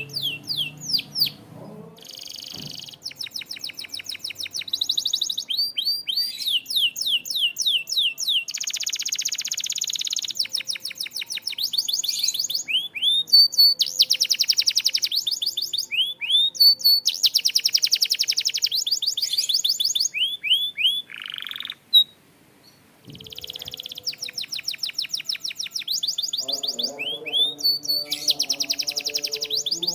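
Domestic canary singing a long, fast song of rapid trills and quickly repeated rising notes, with one brief pause a little past two-thirds of the way through.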